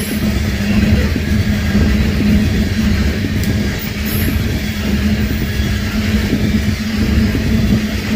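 Freight train rolling by: a steady, loud rumble with a constant low hum underneath.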